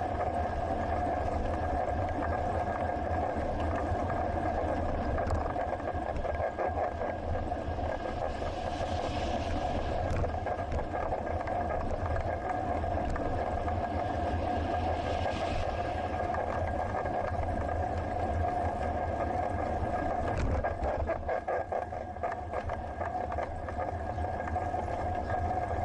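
Wind and road noise from a moving bicycle, picked up by a helmet- or bike-mounted action camera, with a low rumble under a steady hum. Two short hissing swells come near the middle.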